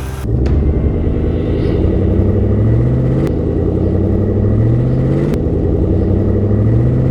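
Engine sound effect of a heavy construction vehicle, running low and steady and rising in pitch three times as it revs.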